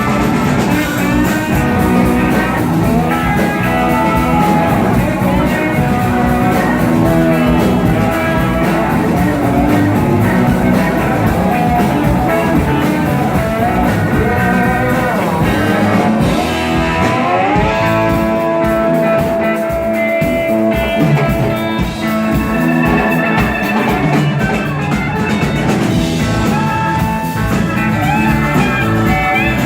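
Live rock band playing an instrumental break, with a lead guitar line over bass and drums. The guitar bends up into a long held note about halfway through.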